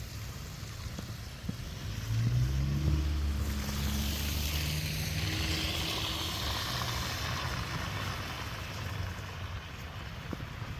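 A motor vehicle drives past on a snowy street. Its low engine hum and tyre hiss swell about two seconds in and fade away after about seven.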